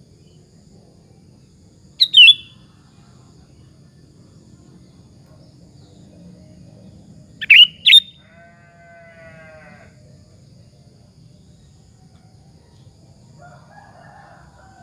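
Sooty-headed bulbul (kutilang) giving short, loud, sharp calls: a quick pair about two seconds in and another pair about halfway through. A fainter drawn-out bleat-like call follows the second pair, over a steady low hum.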